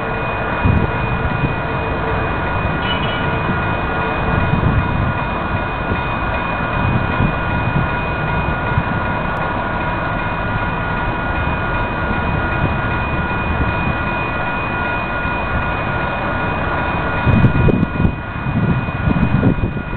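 Sprinter diesel multiple-unit train (Siemens Desiro) running through a road crossing: a steady mix of engine and rail noise with several steady high tones held throughout, and heavier, uneven low rumbling near the end.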